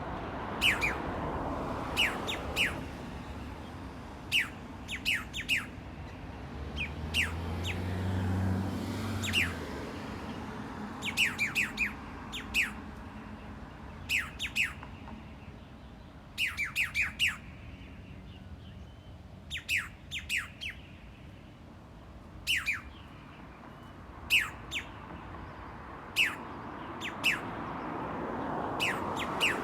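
Birds giving short, sharp, falling calls in quick runs of two to five, repeated every second or two. A low hum sits underneath and grows louder from about seven to ten seconds in.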